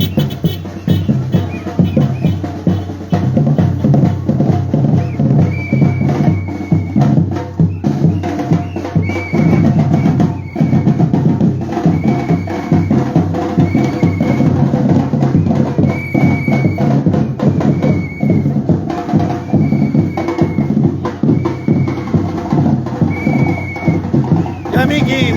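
Batucada drum group playing a dense, steady rhythm on drums, with short high notes repeating every second or two over the beat.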